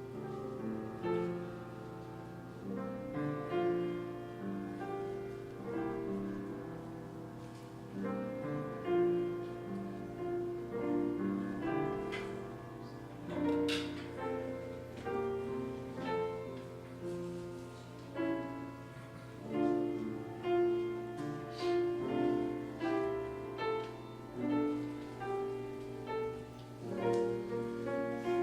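Piano playing a slow, chord-based instrumental piece, with a steady low hum underneath. There is a short sharp click about halfway through.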